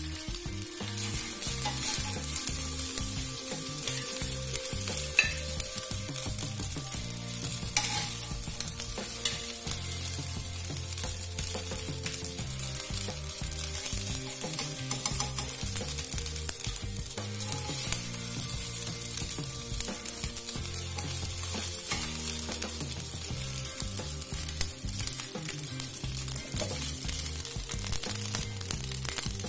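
Fried rice with bean sprouts sizzling steadily in a granite-coated wok, stirred and turned with a spatula. A few sharper knocks of the spatula on the pan stand out.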